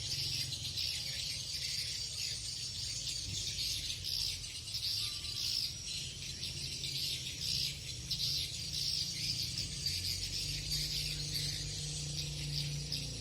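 Swiftlets twittering: a dense, steady chatter of high chirps, with a low hum underneath that grows louder near the end.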